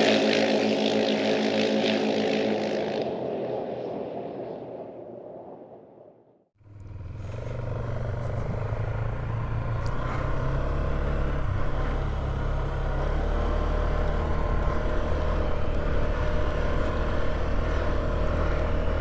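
Rock music fading out over the first six seconds, then a Polaris ATV engine running steadily as the quad rides along.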